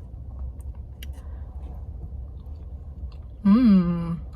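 A person chewing biltong (dried meat) with faint mouth clicks over a low steady rumble, then a short hummed "mm" about three and a half seconds in.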